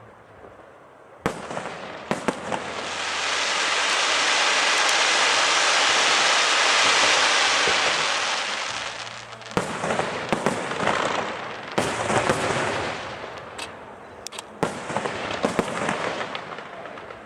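Aerial fireworks show: a sharp shell burst about a second in and a few more just after, then a long hiss that swells and fades over about six seconds. After that comes a rapid run of bursts and sharp cracks.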